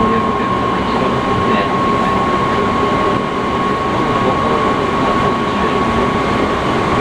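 Seibu 6000 series electric train with Hitachi GTO-VVVF traction equipment running at steady speed, heard inside the passenger car: a steady rumble of wheels on rail with a steady high whine held throughout.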